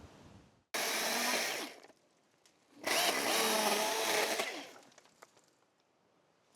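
Chainsaw engine revving in two short bursts, the second longer, with the pitch rising and falling.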